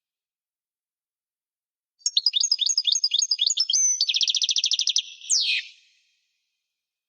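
European goldfinch singing one song phrase that starts about two seconds in: a run of quick, high twittering notes, then a fast buzzy trill, ending in a single falling sweep note about four seconds in.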